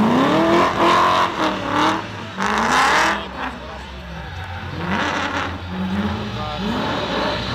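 Two drift cars, a BMW E46 M3 and a V8-engined BMW E30, revving hard as they drift, the engine pitch rising and falling again and again.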